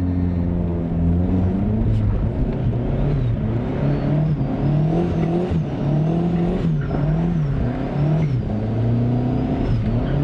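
Turbocharged Mazda MX5 Miata NB 1.8 four-cylinder engine under part throttle, its revs rising and dropping again and again. A faint high whistle rises and falls with the revs, and a few sharp clicks come through.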